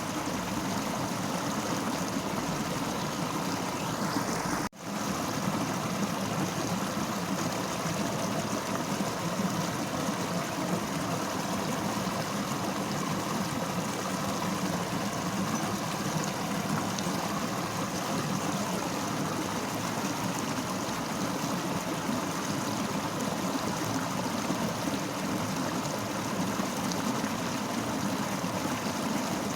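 Fast-flowing river, a steady, even sound of flowing water, broken once by a sudden momentary dropout about five seconds in.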